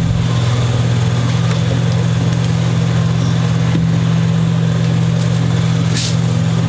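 Steady low hum, like a motor or electrical hum, running unchanged.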